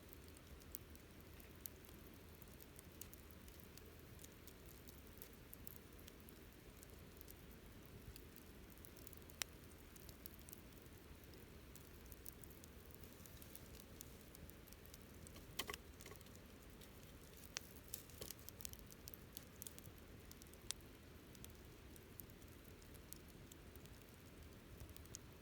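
Wood campfire burning quietly, crackling with scattered small pops and snaps over a low, steady rumble, with a few louder snaps here and there.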